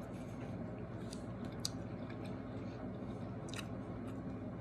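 A person chewing food close to the microphone, with a few short wet mouth clicks over a steady low hum.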